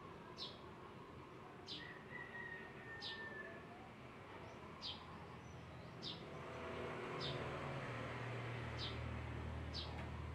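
A bird repeatedly gives short, high, falling chirps, about one every second and a half, with a brief held whistle early on. From about six seconds in, a breathy throat-constricted Ujjayi exhale rises under it, and a low steady hum joins near the end.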